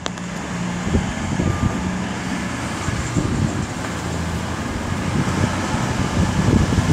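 Passenger train passing through the station: a steady rumble of wheels and running gear with a low hum, growing slightly louder toward the end.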